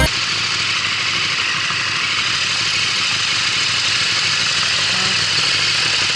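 KTM Super Duke motorcycle's V-twin engine idling steadily under an even hiss.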